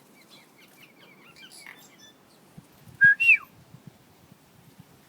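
A person whistling a two-part call to bring tui to a feeder: a short steady note, then a higher note that slides down, once, about three seconds in. Faint, high bird chirps come in the first two seconds.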